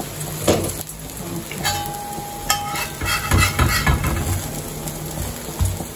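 A dosa frying in oil on an iron tawa, sizzling, with clinks and scrapes of a flat metal spatula against the pan as the dosa is loosened and lifted.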